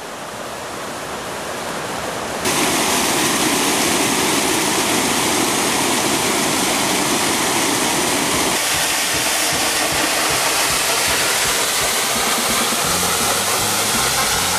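Waterfall: a steady rush of falling water. It swells over the first couple of seconds, then is suddenly louder about two and a half seconds in.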